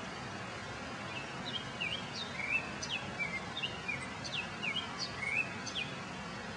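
Small birds chirping: a run of short, quick chirps, many dropping in pitch, starting about a second in and stopping near the end, over a steady background hiss of outdoor noise.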